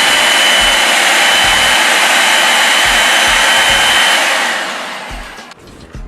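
Electric blender running at high speed on passion fruit pulp and ginger to loosen the seeds. It starts abruptly, holds steady, then winds down about four seconds in.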